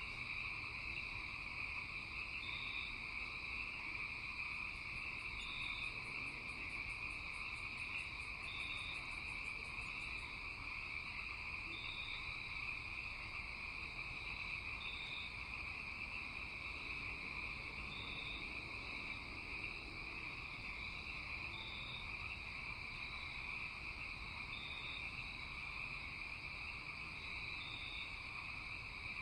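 Night chorus of crickets and other insects: a steady high-pitched drone, with a short higher chirp repeating about every three seconds. A fast, very high trill joins for a few seconds early on, then stops.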